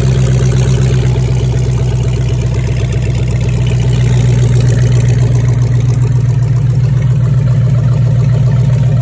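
6.1-litre Hemi V8 idling steadily on an engine run stand, freshly started and still cold.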